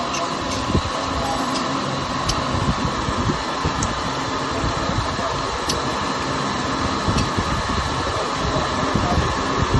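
A machine running with a steady whir, with a few light clicks and knocks over it.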